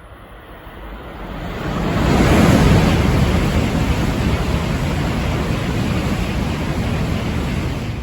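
Shinkansen train passing at high speed: a rush of noise that swells over about two seconds, holds steady for about five seconds, then starts to fade near the end.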